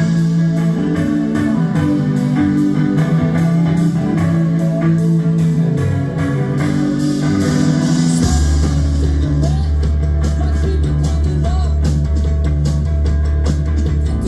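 Live rock band playing a song, with guitars over a steady drum beat; a heavy bass line comes in about eight seconds in.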